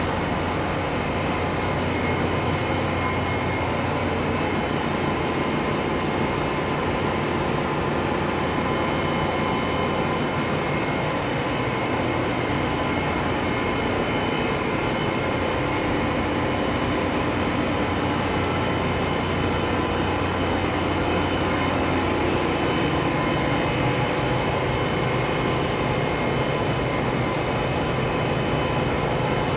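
Bulk carrier engine room machinery running: a steady, unbroken drone with several constant tones held over a wide mechanical noise.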